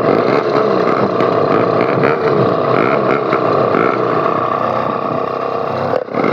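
Motorized bicycle engine with a bare straight-pipe exhaust and no muffler, running loud while it warms up from a cold start, its speed wavering up and down. It drops briefly about six seconds in.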